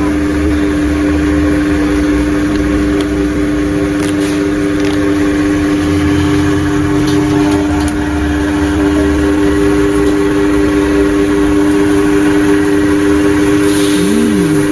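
A loud, steady mechanical hum from a running motor or engine, with a low rumble that rises and falls beneath it.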